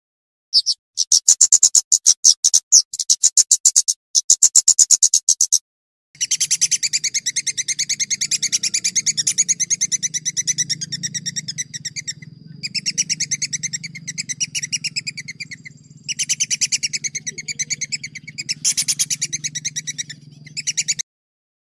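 Recorded songbird song: fast rolling trills of sharp, high-pitched notes. The first few seconds come in short bursts, then long unbroken rolls follow with a low hum beneath. Each section cuts off abruptly, as in an edited tutor recording.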